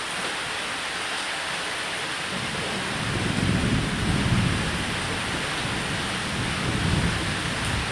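Steady rain falling on a roof, with low rolls of thunder swelling from about three seconds in and again near the end.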